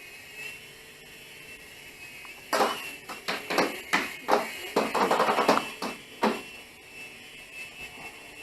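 Mini RC helicopter's small electric motors and counter-rotating rotors whirring with a steady high whine. From about two and a half seconds in, a rapid run of loud knocks and clatters lasts about four seconds, louder than the whine.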